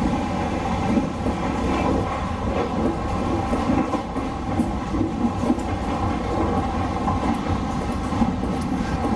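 Hokutosei sleeper express train running on rails: a steady rumble of wheels on track with a few faint clicks.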